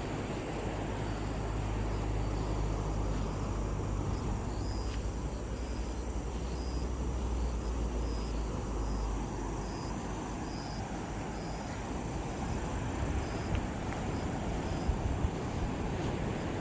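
Sea surf and wind noise, with a low engine drone underneath that stops about two-thirds of the way through. A row of short, high chirps, about one a second, runs through the middle.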